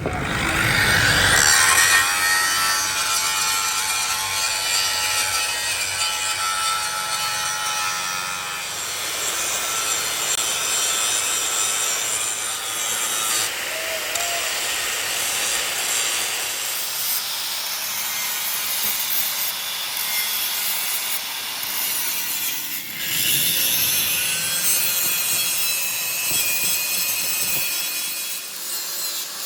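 A tool scraping and cutting metal with a steady harsh hiss, whose tone shifts a little around the middle.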